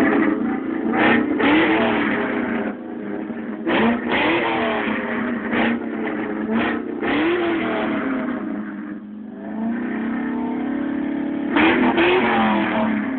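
1999 SVT Cobra's 4.6-litre DOHC V8 revved in a series of short rising and falling blips through a Basani cat-back exhaust. It settles briefly to a steadier idle about nine seconds in, then is revved again near the end.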